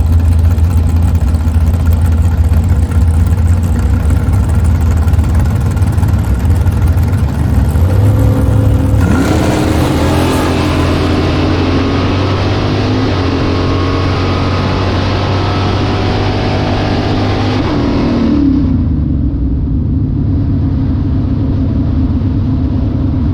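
A 377 cubic-inch small-block Chevy V8 in a 1972 Vega drag car makes a run. It runs loud and steady at first, then about nine seconds in it launches and pulls hard with the engine pitch climbing. Near eighteen seconds it lifts off and the engine note falls away to a lower, steadier running sound.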